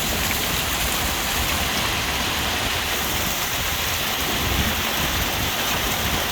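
Heavy downpour of rain, a steady dense hiss of rain hitting the ground, with runoff water rushing along the street.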